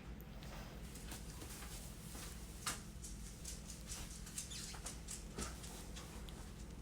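Faint, irregular clicks and ticks over a low steady hum as a fishing reel is cranked to bring in a hooked line, with one sharper click about two and a half seconds in.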